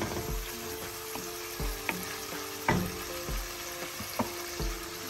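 Pilchard curry sizzling in oil in a stainless steel pan while a spoon is moved gently through it. The spoon knocks lightly against the pan a few times.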